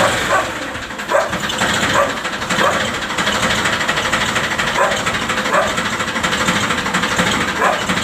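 Ford 3600 tractor's three-cylinder engine running steadily, with a fast, even firing beat.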